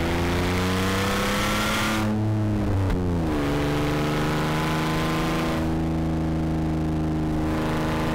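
Rally car engine under load: its pitch rises for about two seconds, drops sharply about three seconds in, then holds steady revs for the rest.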